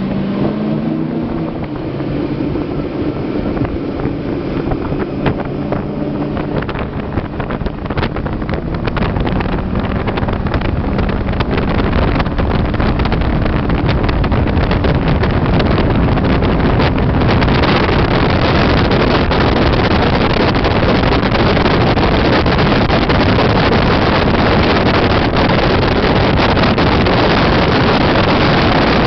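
22-foot Liberator performance boat under way: the engine note is clear at first, then is buried under rising water rush and wind on the microphone as the boat picks up speed, and holds a steady loud rush from about halfway through.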